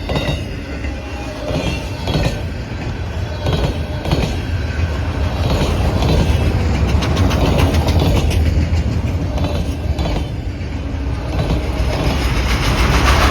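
Freight train cars rolling past, wheels clacking over rail joints again and again over a steady low rumble, with a high wheel squeal near the start.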